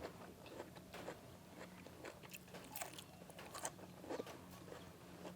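A person chewing and biting crunchy food close to the microphone: soft, irregular crunches and mouth clicks.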